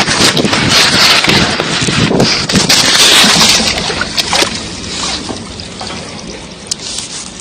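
Loud rushing noise of an Indian Air Force Mi-17 V5 helicopter's rotor wash and turbines blasting the microphone after a crash landing, with scattered clattering clicks, dying away over the last few seconds.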